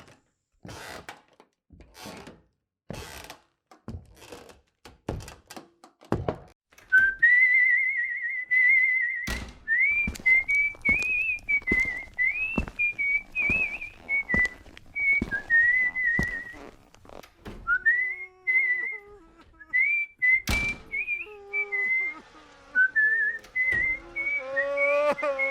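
Slow, evenly paced footsteps or thuds, then from about seven seconds in a person whistling a wavering tune over the continuing steps. Toward the end a lower, fuller pitched sound with several overtones joins the whistling.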